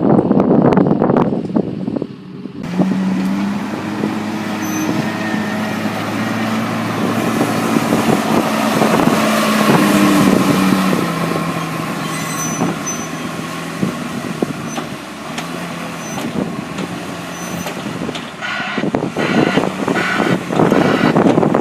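Diesel engine of silage farm machinery running steadily, its pitch dropping slightly about halfway through. Wind buffets the microphone at the start and again near the end.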